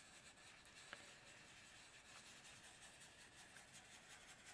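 Near silence with faint rubbing of soft pastel being blended into the paper, and a small tick about a second in.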